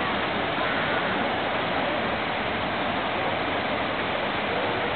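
Running water rushing steadily, an even, unbroken noise.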